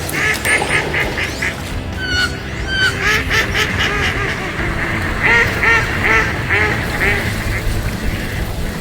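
Waterfowl calling: quick runs of short, repeated, arched calls, several a second, with a steady background beneath.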